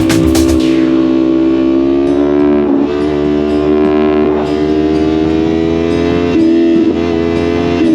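Music with a beat cuts out about a second in, giving way to a motorcycle engine running at a steady speed under way, its pitch dipping briefly a few times.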